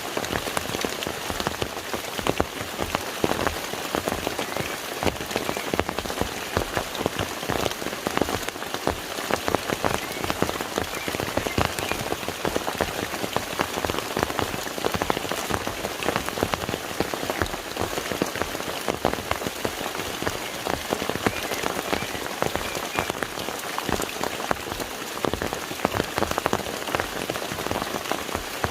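Steady rain falling on the surface of a lake, a dense hiss of countless individual drops splashing on the water.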